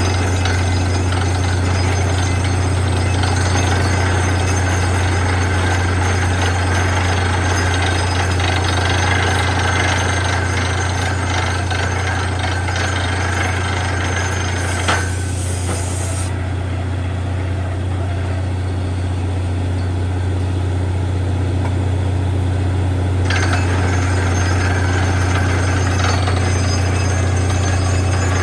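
Borewell drilling rig running: a loud, steady engine drone under the rattle of the drilling. About halfway through there is a brief hiss, after which the higher rattle drops away for several seconds before returning.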